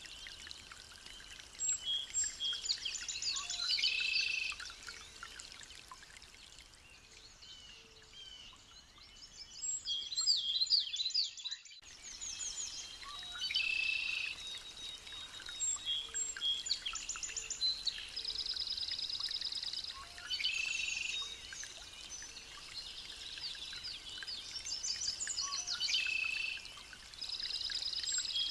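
Several songbirds singing and chirping together: overlapping high whistles, chirps and trills. About two-thirds of the way through there is a fast trill of rapidly repeated notes. The sound cuts out for a moment near the middle.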